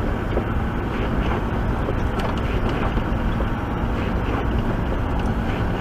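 Steady engine and road noise heard inside a moving vehicle's cab, strongest in the low end and unchanging.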